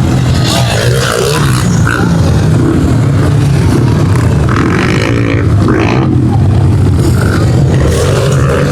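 Several pit bike engines running and revving together on a race track, their pitch rising and falling as riders throttle up and shift.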